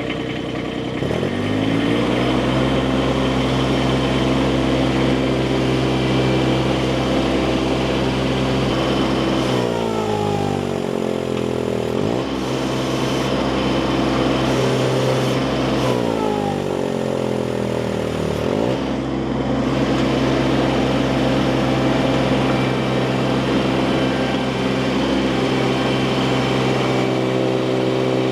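Baumalight mini skid steer's engine revving up about a second in and running steadily at high speed, its pitch sagging twice and then quickly climbing back.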